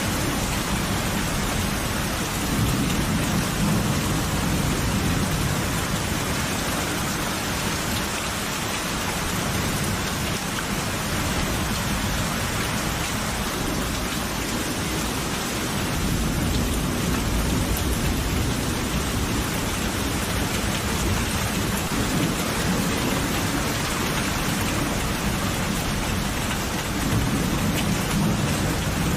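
Steady heavy rain with low thunder rumbling underneath, swelling a few times: once a few seconds in, again around the middle and once more near the end.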